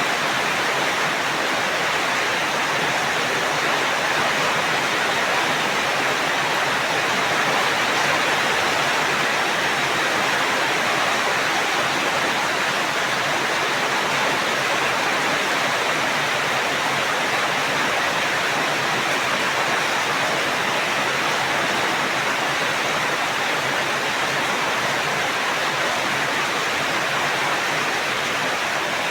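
Steady rain falling, an even, unbroken hiss of water with no thunder or other events.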